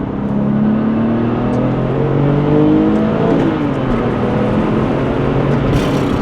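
Porsche 996 Turbo's twin-turbocharged flat-six pulling hard in second gear, its pitch rising for about three seconds. The pitch dips about three seconds in, then climbs again.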